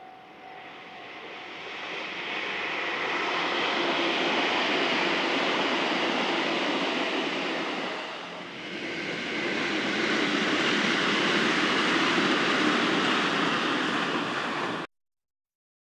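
JR Central 313 series electric train running past on the line: a rushing noise of wheels and running gear that swells over a few seconds, dips briefly about eight seconds in, swells again and then cuts off abruptly. A faint steady level-crossing alarm tone is heard at the very start.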